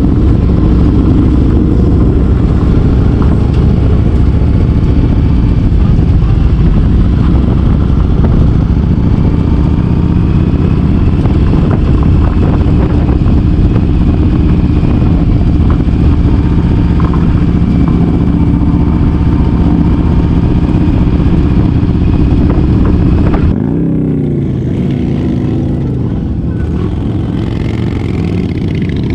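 Motorcycle engine running at a steady pitch under a loud, low rushing noise. About 23 seconds in the level drops and the engine's pitch dips and rises again.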